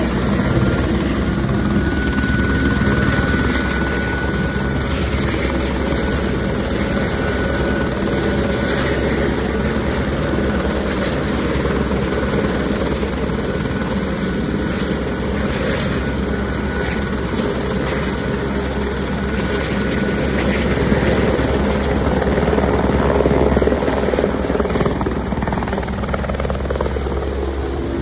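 Helicopter running, its rotor chopping steadily, growing a little louder for a few seconds about three quarters of the way through.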